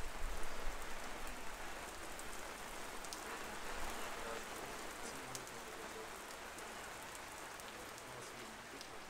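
Downpour on a city street: a steady hiss of heavy rain with scattered sharp drop ticks, a little louder in the first second or so.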